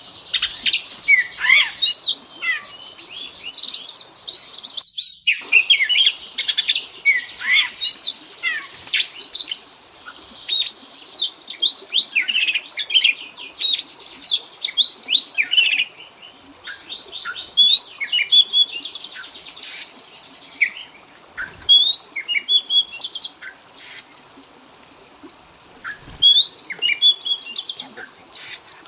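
Oriental magpie-robin (kacer) singing a fast, varied song of high whistles, chirps and trills, packed with phrases mimicked from other birds. The song comes in bursts with brief pauses.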